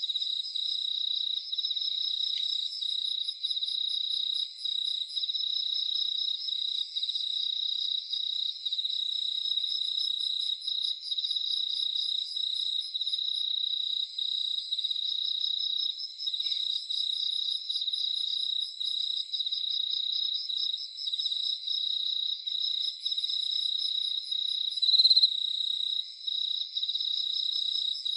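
A dense chorus of crickets chirping without a break in fast, even pulses. A second, higher and faster trill starts and stops every few seconds over it, and one chirp stands out louder near the end.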